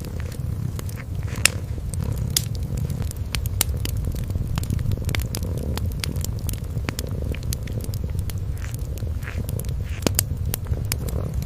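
A cat purring in a steady low rumble, over the frequent sharp pops and crackles of a wood fire burning in a fireplace.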